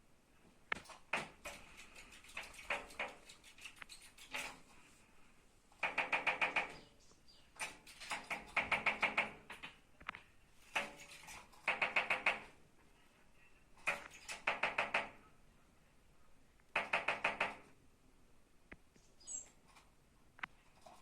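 A bird tapping rapidly with its beak, in repeated short bursts of about ten quick knocks a second.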